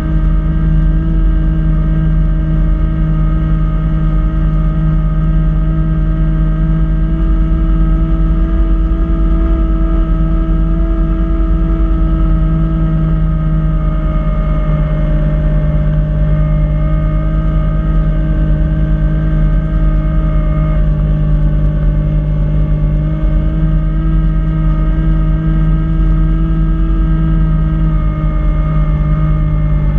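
Kubota B2650 compact tractor's three-cylinder diesel engine running steadily under load while driving a front-mounted snow blower, its pitch rising slightly and easing back now and then.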